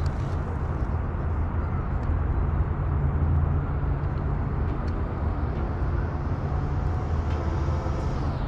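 Steady low rumble of distant road traffic, with no distinct bird calls.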